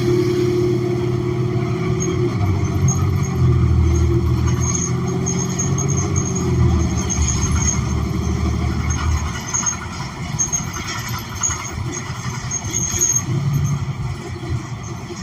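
New Flyer XN40 city bus heard from inside the cabin, its Cummins Westport ISL G natural-gas engine and drivetrain humming steadily under way, then easing off about nine seconds in as the deep hum fades.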